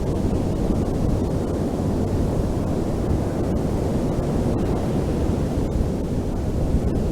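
Ocean waves washing on a beach as a steady, deep rush of surf, with wind buffeting the microphone.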